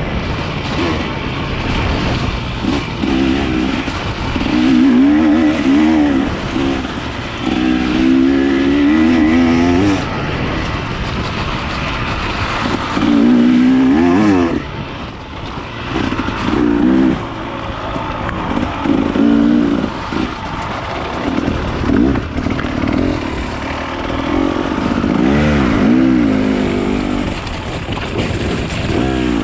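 Enduro dirt bike engine being ridden, its revs rising and falling again and again as the throttle is opened and closed.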